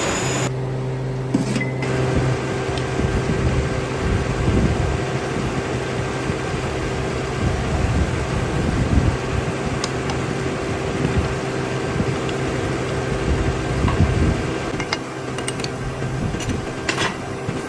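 Workshop machinery running with a steady hum, with a few light metallic clicks now and then.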